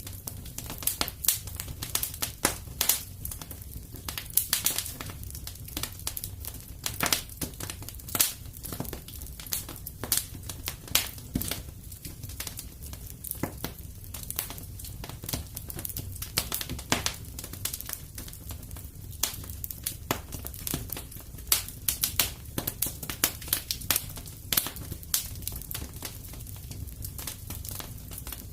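Wood fire in a fireplace crackling, with irregular sharp pops and snaps, some much louder than others, over a steady low rumble.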